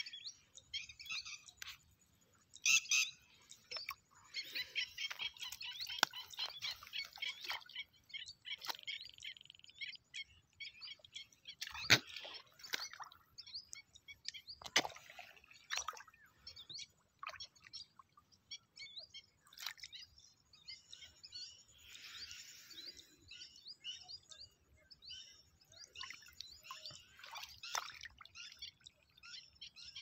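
Birds chirping and calling, many short chirps with a dense run of rapid chirping in the first part. Two sharp knocks near the middle.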